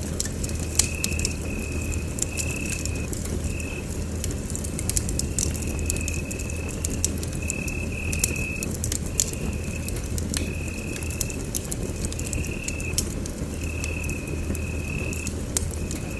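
Wood fire burning in a fireplace: a steady low rumble with frequent sharp crackles and pops. A thin high tone keeps breaking in and out throughout.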